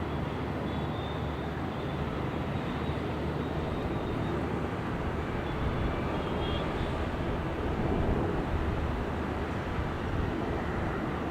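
Airliner engines rumbling steadily as the plane comes in to land, swelling slightly about eight seconds in.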